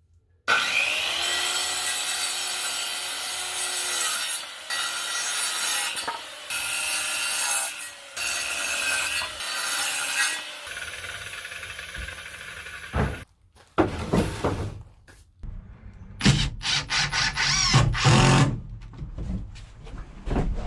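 Power saw cutting lumber in several passes with short breaks between them. Near the end, about two seconds of rapid knocking and clattering.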